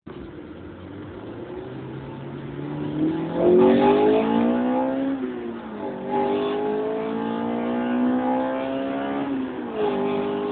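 Honda B16 four-cylinder engine accelerating hard through the gears, heard from inside the car. Its pitch climbs, gets louder about three seconds in, drops at a gear change about five seconds in, climbs again and drops at another shift near the end.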